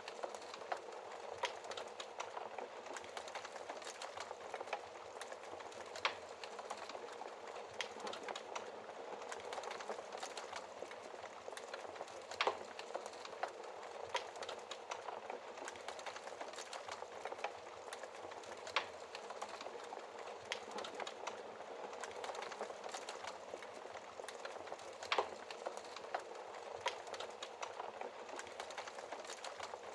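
Wood fire crackling in a fireplace: a steady soft hiss with frequent small pops and snaps, and a few louder snaps about every six seconds.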